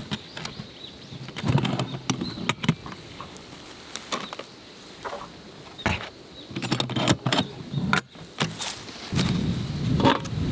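Scattered clicks and light knocks mixed with bursts of low rustling, as of small gear being handled.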